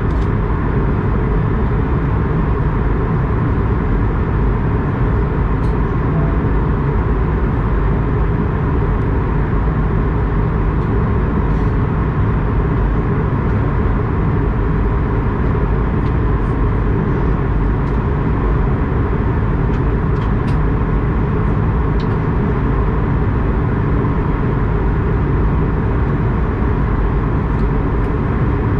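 Steady, unbroken low hum of an Airbus A220-100 with its Pratt & Whitney PW1500G geared turbofans running, as heard aboard, with a few faint clicks.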